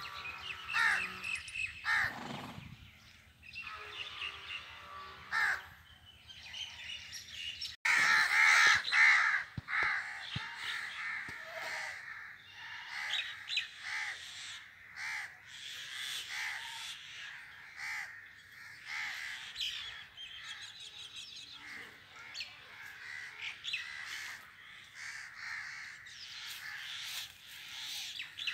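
Birds calling, many short calls overlapping, sparse at first and then a busy, louder chorus after an abrupt change about eight seconds in.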